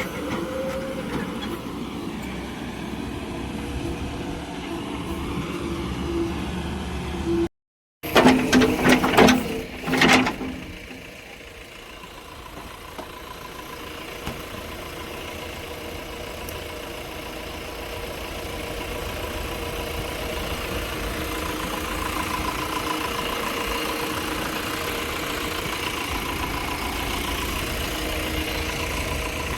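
A vehicle engine running steadily. After an abrupt cut about a third of the way in, there are a few seconds of loud knocks and clatter. Then the engine is heard again, at first quieter, slowly growing louder.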